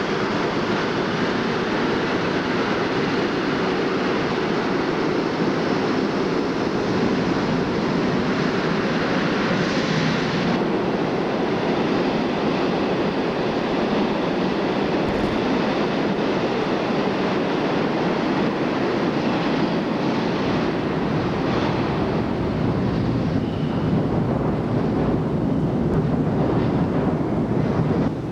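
New York City subway train running on the rails: a loud, steady rumble of wheels and traction motors, with a few faint clicks in the last seconds.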